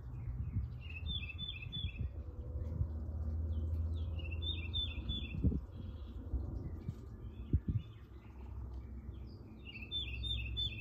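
A songbird singing a short phrase of quickly repeated notes about every three seconds, four times in all, over a steady low rumble with a couple of knocks.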